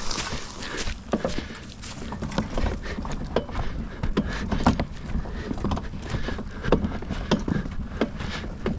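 Heavily loaded wheelbarrow being pushed and pulled over rough, bumpy ground: irregular knocks and clatters several times a second over a low rumble.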